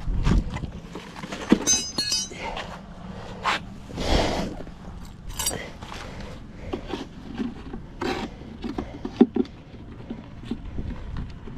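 Beekeeping hive tool and wooden hive parts being handled: a run of scattered knocks, clinks and short scrapes as frames and boxes are pried and moved.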